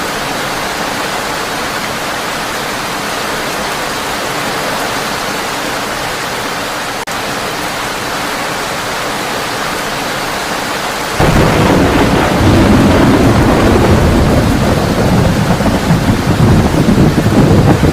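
Heavy rain falling steadily on a tin roof. About eleven seconds in, thunder comes in suddenly over the rain as a loud, low rumble that keeps going.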